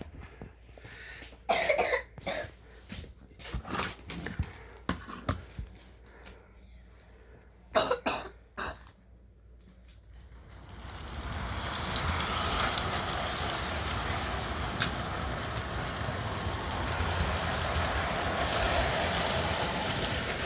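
Scattered clicks and knocks with two short louder bursts, then from about ten seconds in an O-scale model train starts running on its track, its wheels and motor making a steady, even rolling noise.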